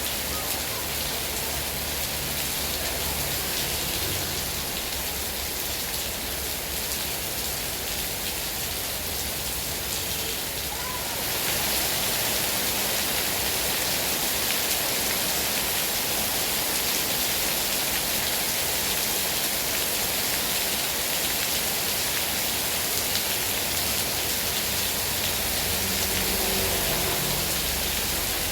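Heavy rain falling in a steady, dense hiss, growing a little louder about eleven seconds in.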